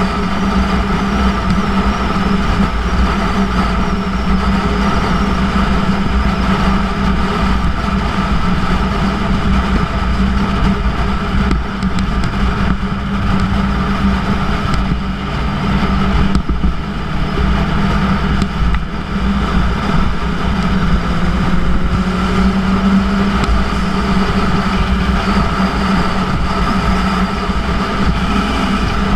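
Yamaha YZF-R1's inline-four engine running through a Yoshimura titanium exhaust while the bike cruises, with wind and road noise over it. The engine note holds mostly steady, with small rises and falls in pitch.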